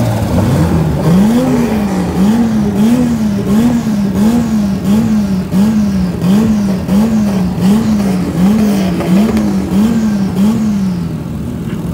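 Drift car's engine revved over and over while standing still, its pitch climbing and dropping about one and a half times a second in a steady series of blips, stopping near the end.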